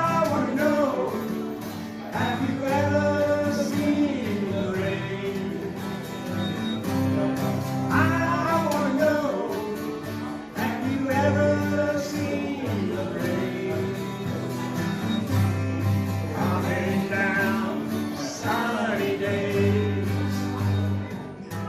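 Live singing with strummed acoustic guitar accompaniment, a country-rock song sung through with no break.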